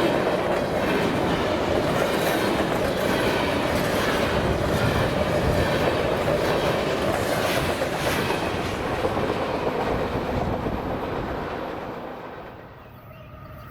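Freight train rolling past close by, its wheels clacking over the rail joints. The sound drops away near the end as the train passes.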